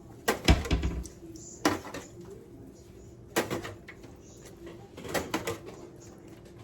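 Handling noise in a kitchen: four short bursts of knocks and clatter, the first and loudest with a low thump.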